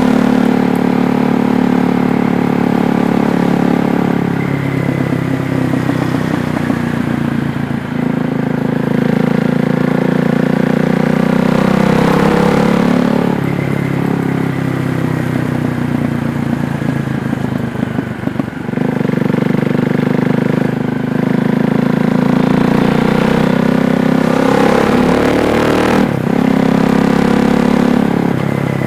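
KTM Duke 390's single-cylinder engine running under way, its note rising and falling with the throttle through the ride.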